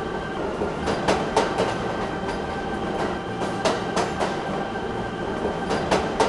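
Train running along the rails with a steady rumble and the clickety-clack of wheels over rail joints, the clicks coming in small clusters every two to three seconds.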